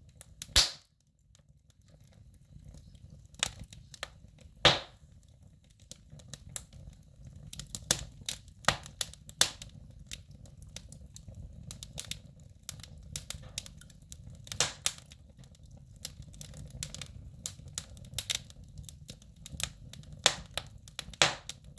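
Wood fire crackling in a fireplace: irregular sharp pops and snaps over a low steady rumble, with a few louder pops, the loudest about half a second in and again near five and fifteen seconds in.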